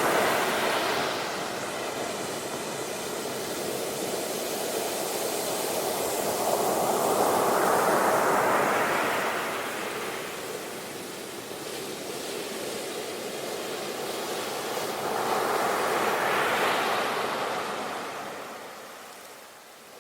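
Ocean waves breaking and washing up a beach, a noisy wash that swells and ebbs in slow surges, loudest at about eight and sixteen seconds, then fades low near the end.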